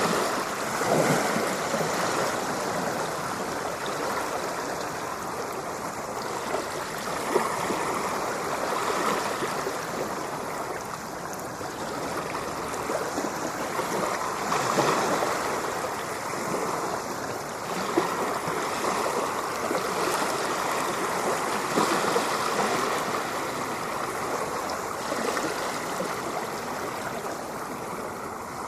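Ocean surf washing in continuously, swelling and easing every few seconds, with two brief sharp sounds along the way.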